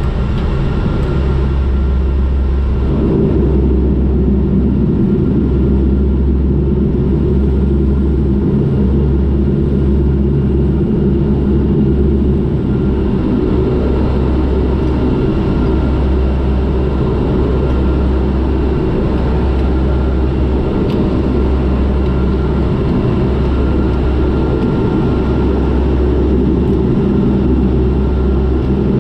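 Turboprop airliner's engines and propellers running, heard inside the cabin during the ground roll after landing: a steady drone with a low rumble that swells and eases every couple of seconds and a faint steady high whine.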